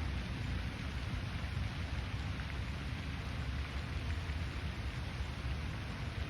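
Steady outdoor lakeside ambience: an even hiss with a low rumble underneath and no distinct events.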